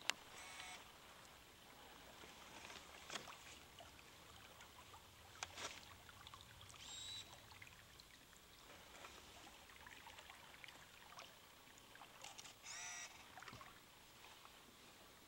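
Quiet river ambience with a few short, faint bird calls spaced several seconds apart, and a couple of light clicks.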